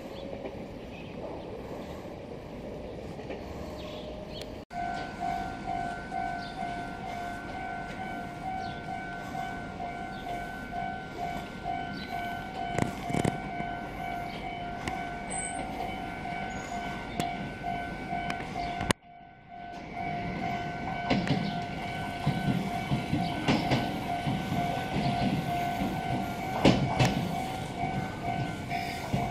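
Meitetsu electric commuter trains approaching and running into stations, with wheel clicks over rail joints and rumble that build toward the end. Over them a steady pulsing warning tone sounds. The sound cuts out briefly about two-thirds of the way through.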